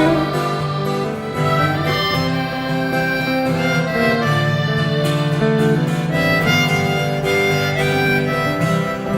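Live country-folk band playing an instrumental break: a harmonica carries the melody in long held notes over strummed acoustic guitar and a steady bass line.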